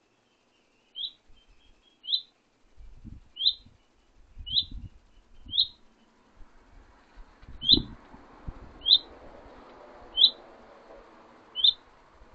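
A small songbird calling: one short, high slurred note repeated nine times, about once a second. A few dull low thuds come in between, the loudest near the middle.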